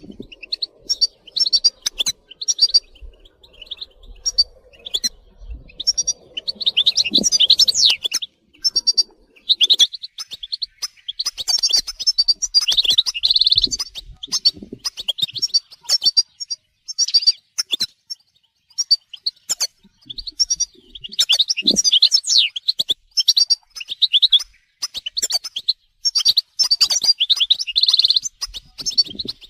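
European goldfinches twittering and calling in rapid bursts of high, tinkling chirps and trills with short pauses between.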